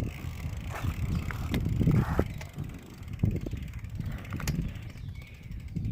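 Bicycle being ridden: a steady low rumble with scattered clicks and rattles from the bike.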